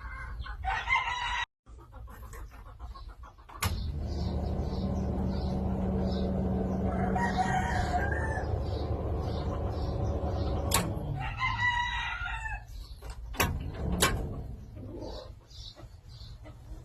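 A rooster crowing twice, once near the start and again near the end, over a steady low rumble that starts with a click about four seconds in and stops about thirteen seconds in.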